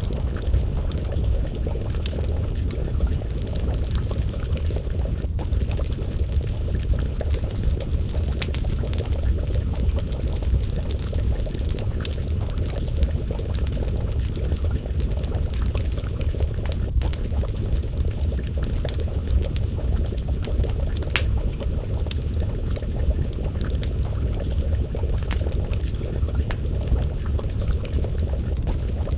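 A pot of stew bubbling at a simmer over an open wood fire, over a steady deep rumble, with the fire's crackles and a few sharper pops scattered through.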